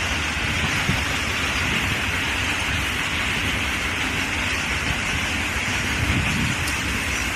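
Indian Railways train running at speed: a steady rushing noise of wheels on rails and air, with a low rumble underneath.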